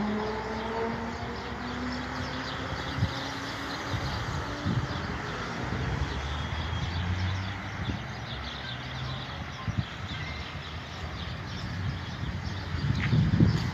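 A motor vehicle passing, its engine pitch falling over the first couple of seconds, then a steady low rumble of traffic.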